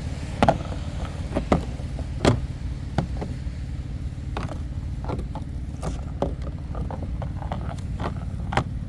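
Snow being brushed and scraped off a car: irregular short scrapes and knocks, about ten in all, over a steady low rumble.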